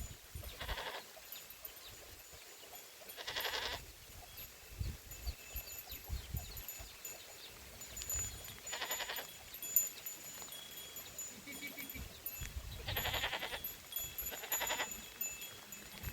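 Goats bleating: about five short bleats spread out with quiet gaps between, two of them close together near the end.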